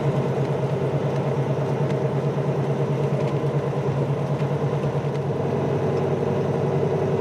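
Semi-truck's diesel engine running with a steady, even drone, heard from inside the cab.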